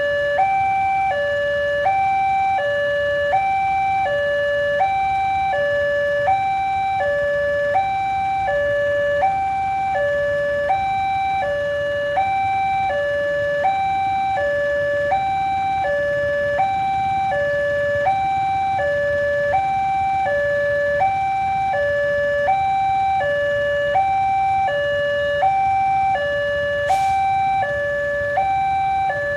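Railway level-crossing warning alarm sounding, an electronic two-tone signal swapping steadily between a higher and a lower note about every 0.7 s, the signal that a train is approaching the crossing. A brief click near the end.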